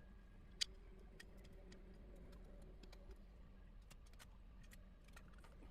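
Faint scattered clicks and ticks of small computer parts and connectors being handled, with one sharper click about half a second in.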